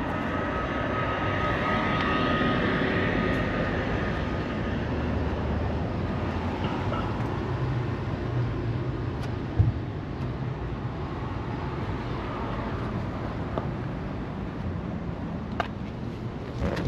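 A 1960 Porsche 356 B Super's 1600 air-cooled flat-four with twin Solex carburettors running just after a cold start. It runs a little higher and louder in the first few seconds, then settles to a steady idle, with one sharp click about halfway through.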